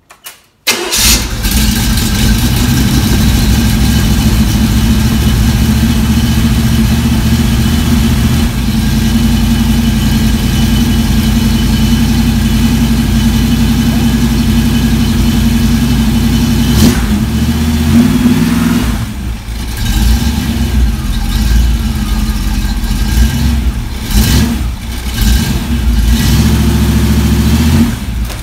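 An engine on a run stand, exhausting through newly fitted Flowmaster mufflers, starts about half a second in on a test run of the mufflers' sound. It settles into a steady loud idle, then is revved a few times in the second half.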